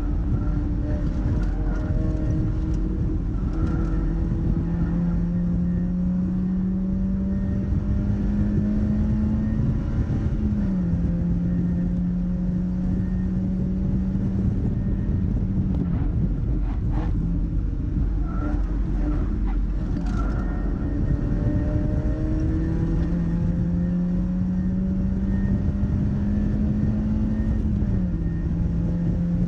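Mazda MX-5's four-cylinder engine pulling at speed around a circuit, revs rising slowly then dropping sharply twice with upshifts, about ten seconds in and near the end, over steady wind and tyre noise.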